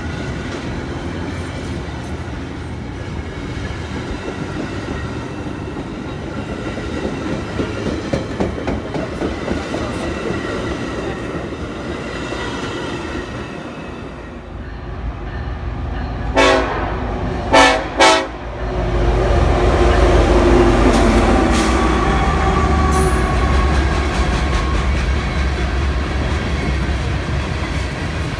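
Metra bilevel commuter cars rolling past and away, wheels clicking over the rail joints. About halfway through, a BNSF coal train's locomotive sounds three short horn blasts. A louder, deeper rumble follows as the locomotive and its loaded coal hoppers pass.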